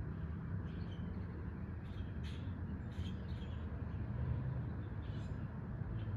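Small birds chirping, several short calls scattered over a few seconds, over a steady low rumble.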